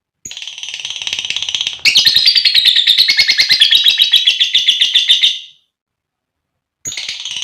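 Female lovebird chattering in a long run of rapid, shrill, high chirps, loudest from about two seconds in. It stops for about a second, then starts again near the end.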